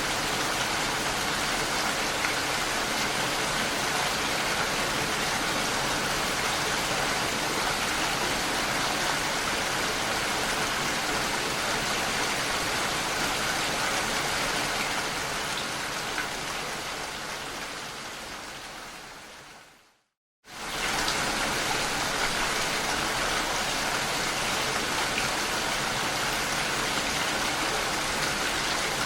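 Steady rain, an even hiss. Past the middle it fades out over about five seconds to a moment of silence, then cuts straight back in at full level: a fade where the rain recording is looped or joined.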